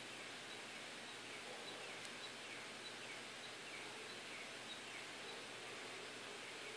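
Steady faint background hiss with a small bird chirping softly over and over, about twice a second.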